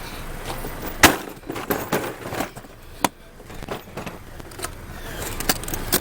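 Sharp metallic knocks and clanks of hand tools and parts while taking out a car battery, the loudest about a second in and another sharp one near three seconds, with lighter clicks between.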